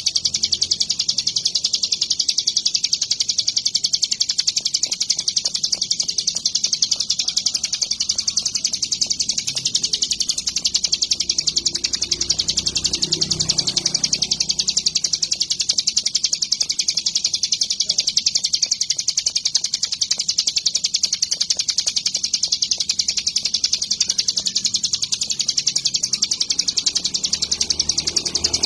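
Ciblek gunung songbird singing nonstop: a long, high, rapid chattering song of fast repeated notes that runs without a break.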